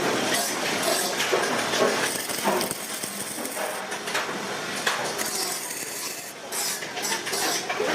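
Irregular metallic knocks and clinks of sheet metal being worked by hand, over a steady noisy workshop background.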